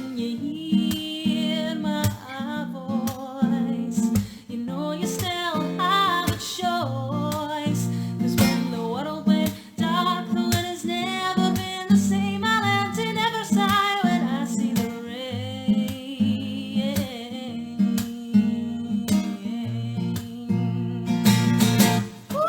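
A woman singing a slow song with vibrato, accompanied by strummed acoustic guitar; the strumming grows more pronounced near the end.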